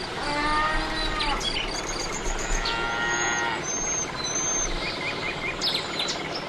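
Farm-animal ambience: a cow mooing once, its pitch falling, with birds chirping over a steady hiss.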